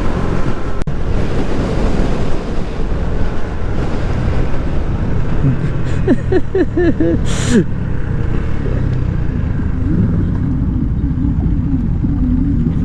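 Motorcycle engine running under way with heavy wind rush on the helmet microphone. About six seconds in, a short wavering whine is heard, followed by a brief hiss.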